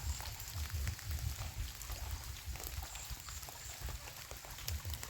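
Light rain, with scattered raindrop ticks over a steady hiss and a low, uneven rumble of wind on the microphone.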